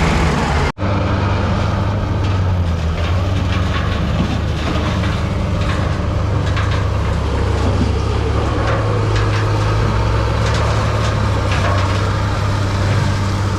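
Bulldozer's diesel engine running steadily, with scattered clanks and rattles over the drone; the sound drops out for an instant less than a second in.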